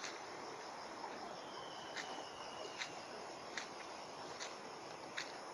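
Steady, even rush of a flooded river, with an insect chirping briefly about once every second from about two seconds in.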